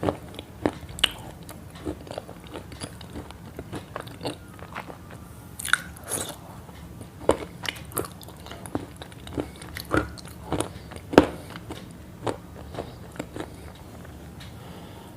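Crunchy chewing and biting: irregular sharp crunches, some louder than others, thinning out near the end.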